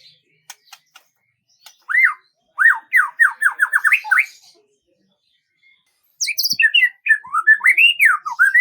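A songbird singing. A few faint clicks come first. About two seconds in there is a phrase of quick downward-slurred whistled notes, then a pause of about two seconds, then a second, more varied twittering phrase near the end.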